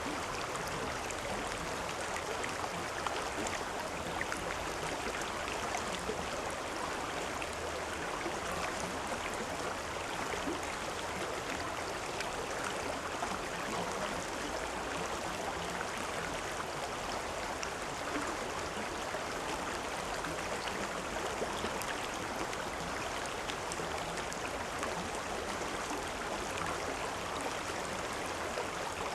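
A river or stream flowing steadily over rocks, a constant rushing and babbling of water with no change in level.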